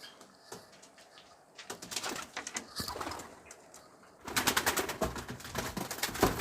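Domestic pigeons in a loft, cooing and stirring with rapid clattering and scuffling that starts a couple of seconds in and gets much louder about four seconds in.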